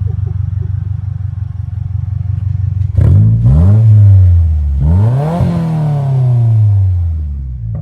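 A new Subaru WRX's 2.4-litre turbocharged flat-four idling with its exhaust removed, then revved twice about three and five seconds in, each rev rising and falling back to idle.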